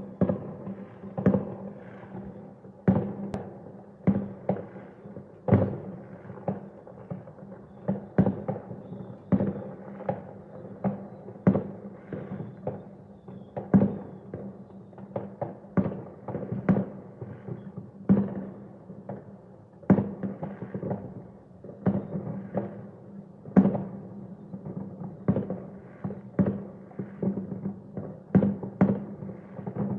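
An irregular run of sharp bangs and thuds, about one or two a second, over a steady low hum.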